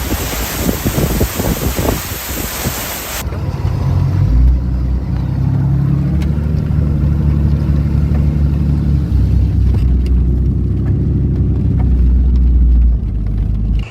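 Loud hissing storm wind and rain on the microphone for about three seconds, then an abrupt cut to a motor vehicle's engine running with a steady low rumble.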